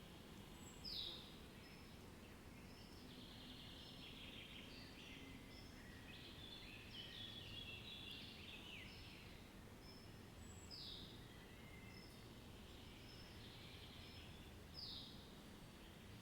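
Faint birdsong over a low, steady background: a short falling call repeats a few times, about a second in, near 11 seconds and near 15 seconds, with a stretch of overlapping chirps from several birds in the middle.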